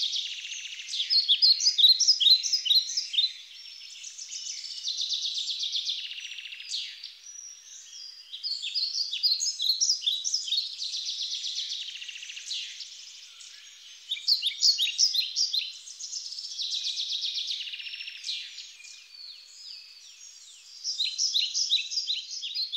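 Birds chirping in quick runs of short, falling notes, alternating every few seconds with a steady high buzz.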